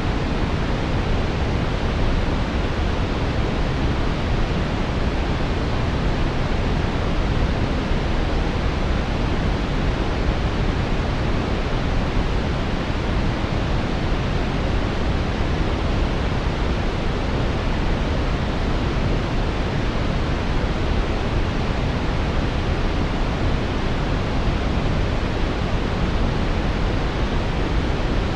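Steady synthetic brown noise, a deep even hiss with most of its weight in the low end, unchanging throughout.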